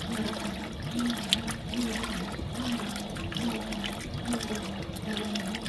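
Fisher & Paykel MW059 top-loading washing machine agitating a load: water sloshes in the tub while the motor hum rises and falls in pitch with each back-and-forth stroke, about every three-quarters of a second.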